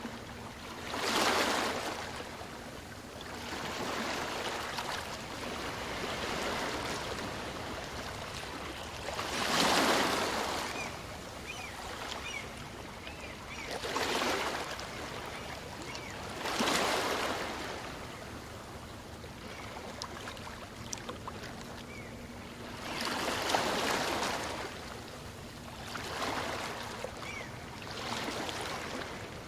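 Calm sea waves breaking and washing up a beach, one after another every few seconds, each surge swelling and fading into a steady wash of surf between them.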